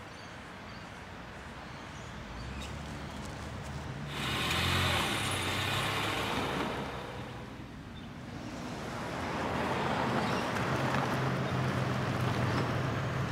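Road traffic noise: a steady rush of passing vehicles with a low engine hum. It grows louder suddenly about four seconds in, dips, and builds again.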